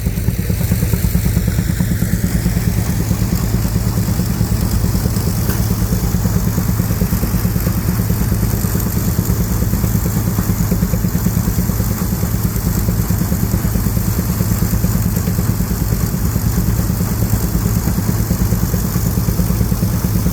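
Avery threshing machine running steadily under belt power from a Baker engine, a continuous, even mechanical rumble.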